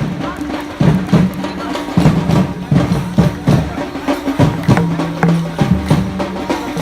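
Live procession music: drums and percussion beating a steady rhythm over sustained low notes that step between a few pitches.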